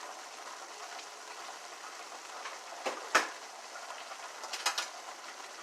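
Squash frying in a pan as it cooks down, a steady sizzle, with a few light clicks about halfway through and again near the end.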